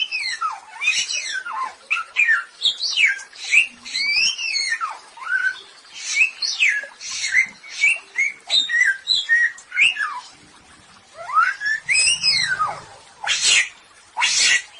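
Song of the samyong, a songbird kept by Indonesian bird fanciers: a fast run of loud whistled notes, each sweeping sharply up and down in pitch, in phrases broken by short pauses. Near the end come two short harsh notes.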